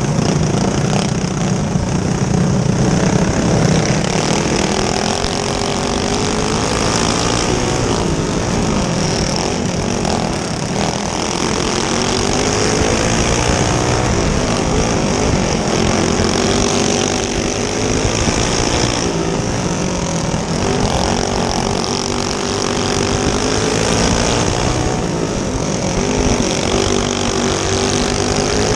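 Clone-class single-cylinder go-kart engine racing, its pitch rising and falling again and again as it revs up and drops off.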